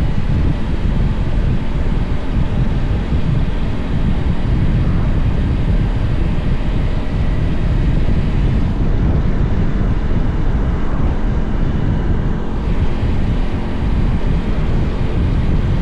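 Steady rush of wind on the microphone while a Honda X-ADV is ridden, with the bike's engine and road noise underneath, loudest in the low range.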